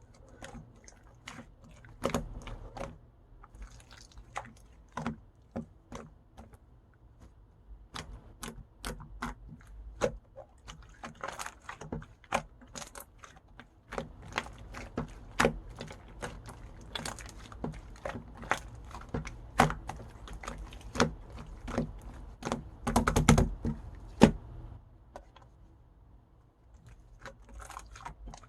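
Pink pearl slime being pressed, stretched and kneaded by hand, giving an irregular run of sticky clicks and small air-bubble pops. A louder cluster of squishing pops comes near the end.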